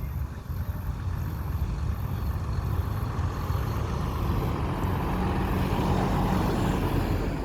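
Garbage truck engine rumbling as it drives by, growing louder in the second half with a steady drone as it comes closest.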